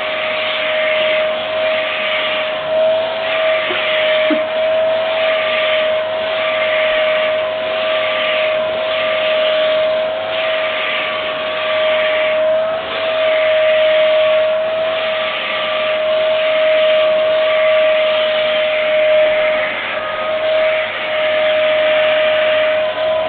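Dyson vacuum cleaner running, a steady high motor whine over a loud rush of air, the airflow swelling and dipping about once a second as it sucks at hair.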